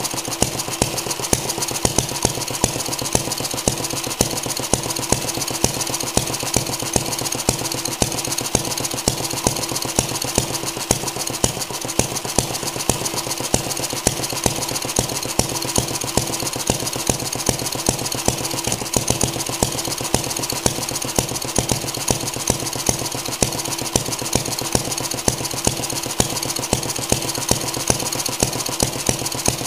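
Stuart Turner 800 stationary gas engine running steadily on its first test run after a rebuild. A loud, sharp beat repeats evenly over a rapid mechanical clatter.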